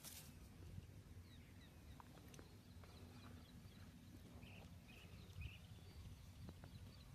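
Near silence: faint outdoor ambience with a low rumble and a few short, faint bird chirps around the middle.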